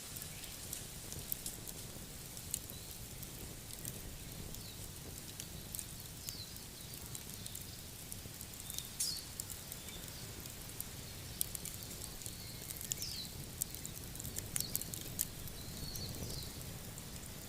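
Campfire crackling: irregular sharp pops and snaps over a steady low rumble, with a few short high chirps now and then.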